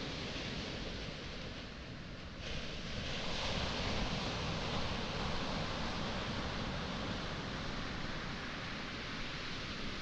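Sea waves washing onto a pebble shore, a steady rushing hiss that swells as a wave breaks about two and a half seconds in.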